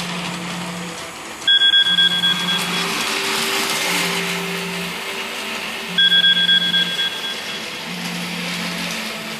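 Electronic beeping from a model railway layout: a quick run of high beeps about every four and a half seconds, twice here, over a low hum that switches on and off about once a second.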